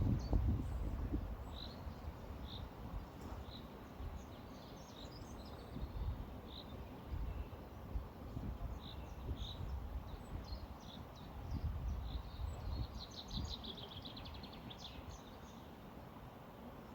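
Small birds singing outdoors: scattered short high chirps, with a rapid trill of repeated notes a little over three-quarters of the way through, over an uneven low rumble of wind and flowing water.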